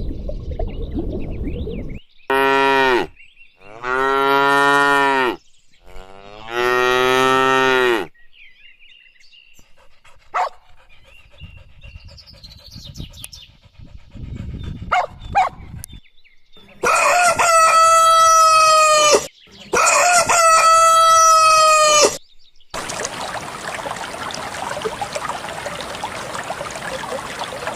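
Cattle mooing, three low calls one after another. Two long, higher-pitched animal calls follow, then running water starts about 23 seconds in.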